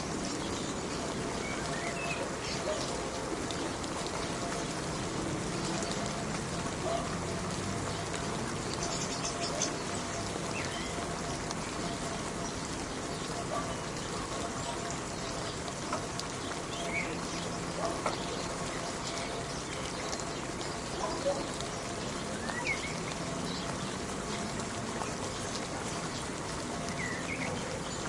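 Steady rain falling as an even hiss, with scattered drip-like ticks. A few short bird chirps come every several seconds.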